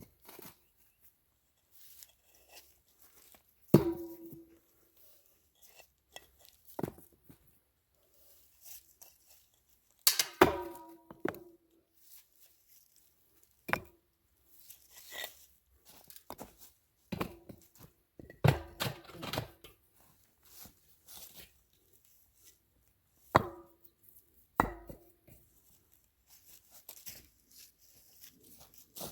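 Bricks and stone being set into place and packed against each other: scattered sharp knocks and clinks of brick on brick, some with a short ring, at irregular intervals.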